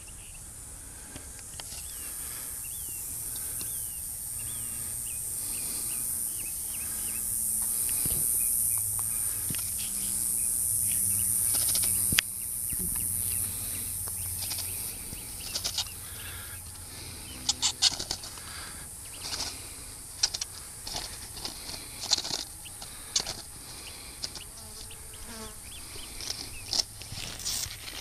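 Small birds chirping over a high, steady insect buzz. From about halfway, irregular rustling and fluttering takes over, like wings flapping.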